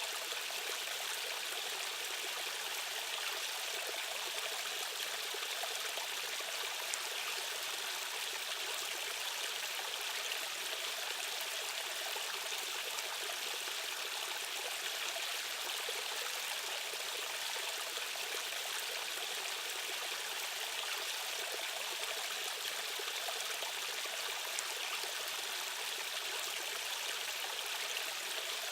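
Fast-flowing stream running steadily: an even rush of water with little low rumble.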